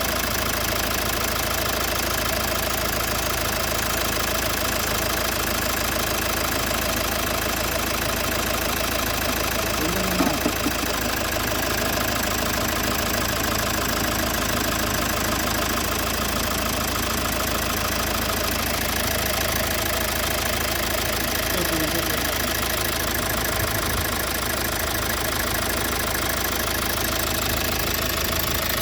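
Mazda CX-5 engine running steadily at idle, with an even mechanical noise that the mechanic puts down to a faulty water pump. A brief louder blip comes about ten seconds in.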